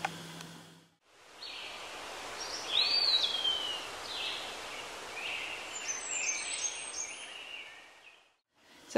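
Steady outdoor hiss with a few short bird chirps, one clear rising-then-falling call about three seconds in.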